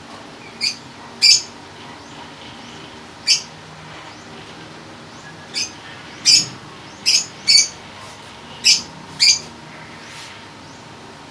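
A bird chirping: about nine short, sharp chirps at irregular intervals, some in quick pairs.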